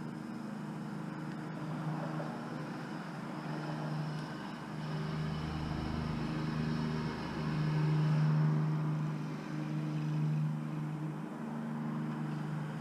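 A motor vehicle engine running with a steady hum that swells and fades a little, with a deeper rumble around the middle.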